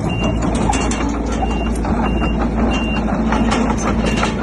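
A heavy machine's reversing alarm beeps steadily, a short high tone about every two-thirds of a second, over a diesel engine running, with frequent clanks and rattles.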